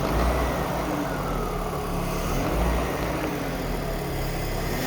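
BMW M54B30 3.0-litre straight-six running steadily at light throttle, with a loud, hissing intake suction noise over the engine hum. The owner has already fitted a new DISA valve, crankcase ventilation valve and air mass meter and found no vacuum leak, so the cause is unknown.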